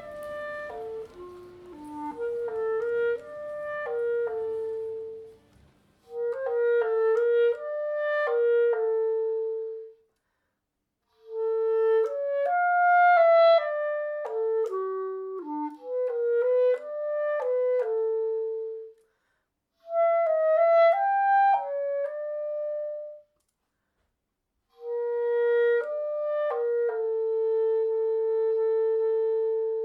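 A single wind instrument playing a slow melody alone, one note at a time, in phrases separated by short pauses, and settling on a long held note near the end.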